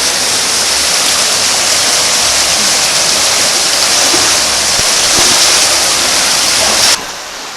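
Loud, steady rush of water from a creek cascade or small waterfall, cutting off suddenly about seven seconds in.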